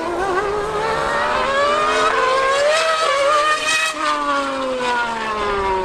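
High-revving racing engines in a drag race between a Formula 1 car and a superbike. The pitch climbs as they accelerate, then a lower note falls away from about four seconds in as they pass.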